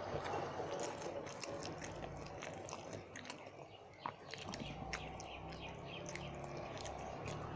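Close-up mouth sounds of chewing and eating rice with fish curry: soft wet smacks and small clicks. About halfway in, a low steady hum comes in underneath.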